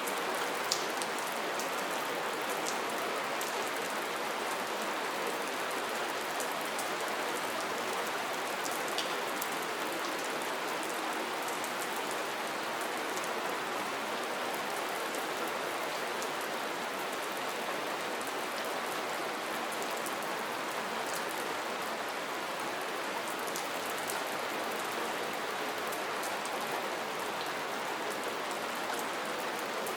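Steady soft rain falling, an even hiss with scattered individual drops ticking sharply.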